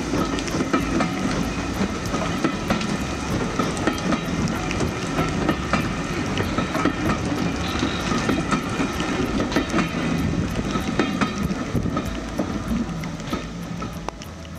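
Vintage passenger carriages of a steam train rolling past close by, wheels clattering over the rail joints, in heavy rain. The sound fades near the end as the train moves away.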